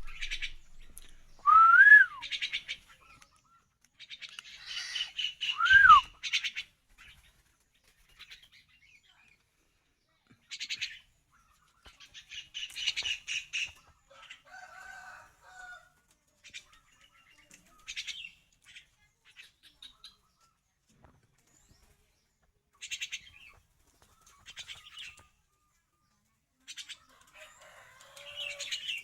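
Small birds chirping in short scattered bursts, with two loud, clear whistles that each rise and then fall, a few seconds apart, near the start.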